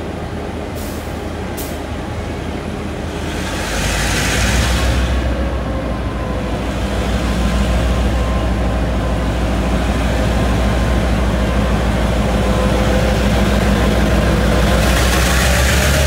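Chu-Kuang Express train pulling away from the station: a low steady hum that grows louder about four seconds in and holds, with a burst of hissing about four seconds in and another near the end.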